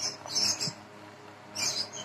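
Bird chirping: short high chirps in quick pairs at the start and again near the end.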